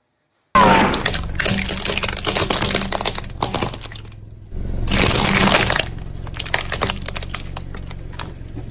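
Car tyre rolling over and crushing brittle objects: dense cracking and crunching over a low, steady engine hum. It begins about half a second in and comes again loudly around the middle.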